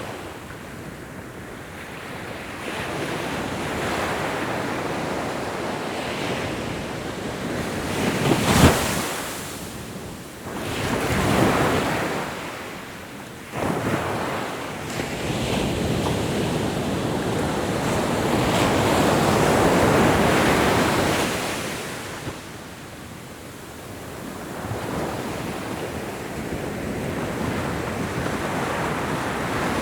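Ocean waves breaking and washing on a shore, surging and ebbing every few seconds, with one sharp crash about eight seconds in and a long swell of surf near the middle.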